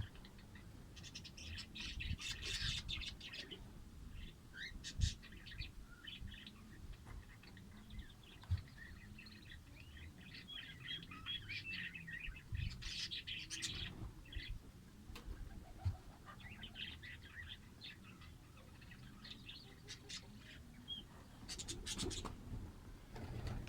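Fischer's lovebirds chirping in repeated bursts of quick, high-pitched chatter, with a few short knocks in between.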